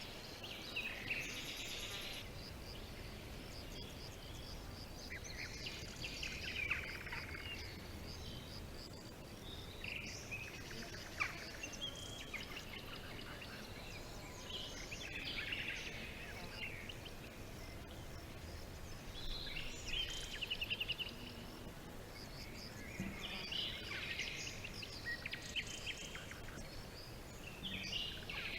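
Several songbirds chirping and singing in short phrases every few seconds, over a steady outdoor background hiss.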